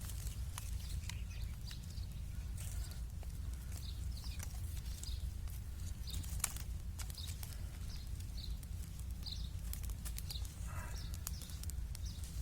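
Small kindling fire of dry sticks catching, with scattered crackles and snaps over a low wind rumble on the microphone. Short bird chirps come throughout, and a brief farm-animal call sounds near the end.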